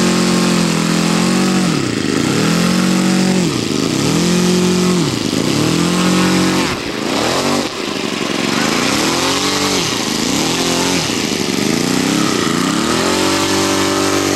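A radio-control scale SPAD 13 model's engine being throttled up and down again and again, its pitch dropping and climbing back about every second and a half, then holding a steady higher pitch near the end.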